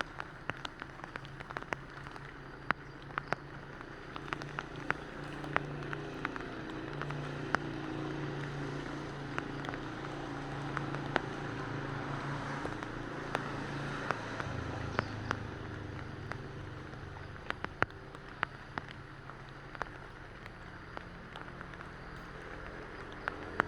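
Steady rain with many separate drops ticking sharply on a hard surface, over a low rumble.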